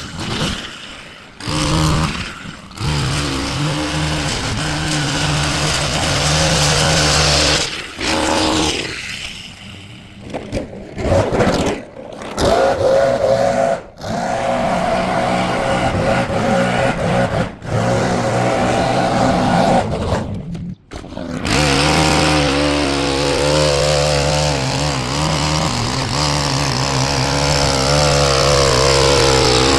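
Small two-stroke-type petrol engine of lawn equipment running at working speed, its pitch wavering with load, with several abrupt breaks where the sound cuts off and picks up again.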